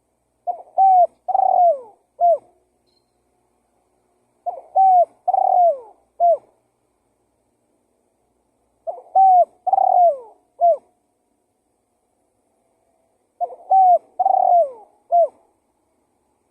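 Spotted dove (tekukur) giving its cooing song four times at an even pace. Each phrase is a quick lead-in note, two rounded coos, a longer coo that falls away, and a short clipped final note.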